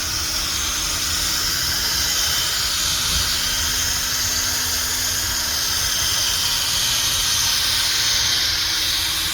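Cordless drill spinning a 500-grit sanding pad against a plastic headlight lens: a steady high-pitched whirring hiss that holds without a break.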